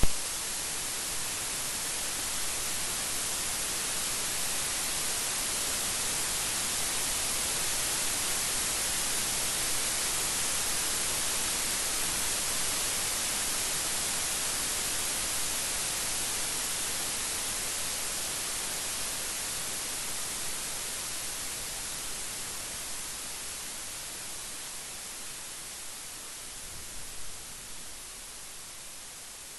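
Steady rain, a dense even hiss, with one brief sharp crack right at the start. The rain eases slightly over the last several seconds.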